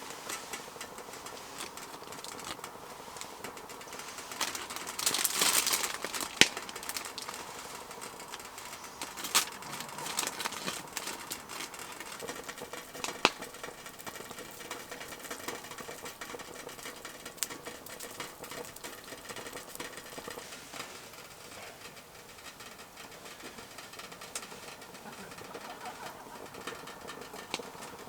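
Wood campfire crackling, with scattered sharp pops and a louder hissing flare-up about five seconds in.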